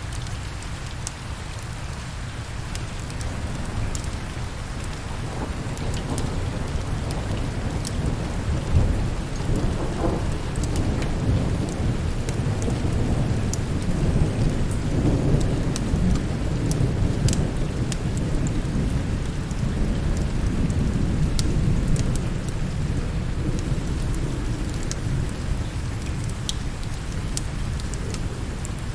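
Steady rain with a long, deep roll of thunder that builds from about six seconds in, is strongest through the middle and fades toward the end. Scattered sharp clicks run through it.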